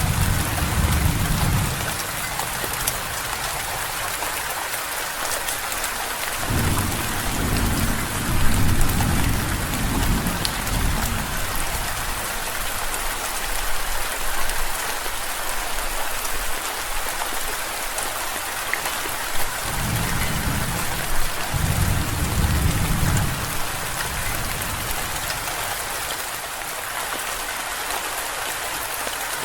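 Steady heavy rain falling, with low rolls of thunder rumbling three times: at the start, from about 6 to 11 seconds in, and again around 20 to 23 seconds in.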